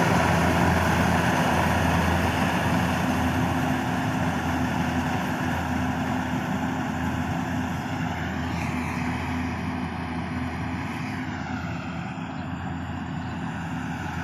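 Rice combine harvester's engine running steadily with a low hum and mechanical noise, gradually fading.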